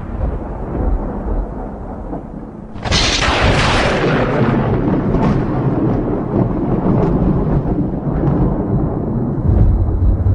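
Thunder rumbling low, then a sharp close thunderclap about three seconds in whose crack fades into a long rolling rumble. The rumble swells again near the end.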